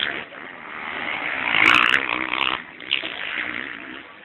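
Motocross bike engine revving hard as it passes close by, growing louder to a peak about two seconds in and then fading.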